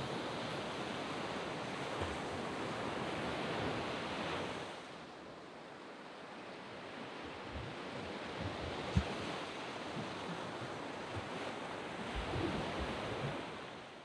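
Surf washing onto a sand beach: one wave's wash fills the first five seconds and falls away, then another swells up from about seven seconds and eases off near the end.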